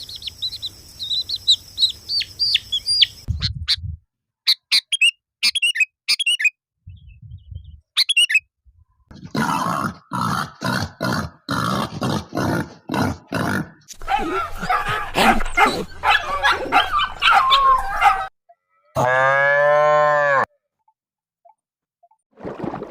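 A run of short animal-sound clips cut together: high chirping in the first few seconds, then a dense rhythmic stretch, then a single long cow moo about nineteen seconds in.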